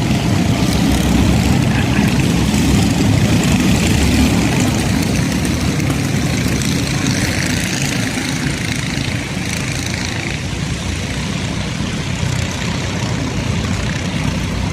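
Several Stoxkarts' small engines running hard around the short oval, a loud steady drone that eases a little after about halfway.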